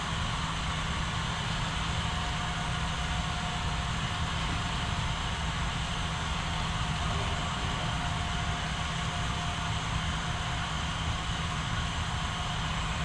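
HO scale model train running along the layout track: a steady hum and rumble from its motor and wheels.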